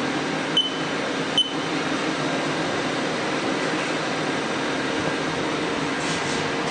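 Steady machine hum with several fixed tones over a noisy haze. About half a second in and again under a second later come two sharp clicks, each with a brief high beep.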